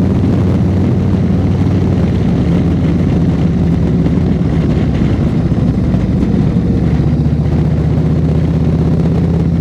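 Harley-Davidson Road Glide Special's V-twin engine running steadily under way, heard from the rider's seat.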